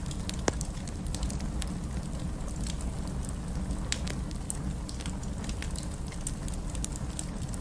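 Wood fire crackling: irregular sharp pops and snaps, a few a second, over a steady low rumble of the flames, with one louder pop about half a second in.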